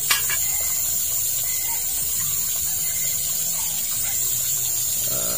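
Onion and garlic sizzling in margarine in a wok, a steady hiss. A single sharp knock sounds just after the start.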